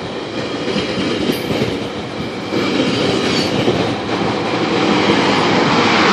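Passenger train rolling past on the rails, a steady rumble of wheels and cars that grows louder in the second half.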